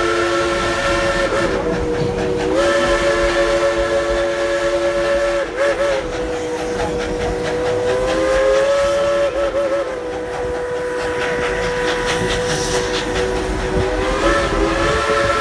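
Steam locomotive's chime whistle blown in one long, drawn-out sounding. Its chord of notes shifts and warbles several times as the whistle valve is eased and opened again, over the hiss and running noise of the train.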